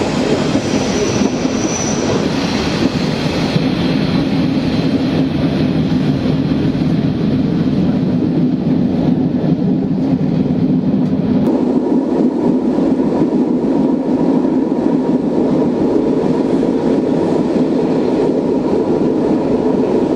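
A mountain railway train running along the track, a steady rolling noise. About halfway through, the sound changes and a faint steady tone comes in.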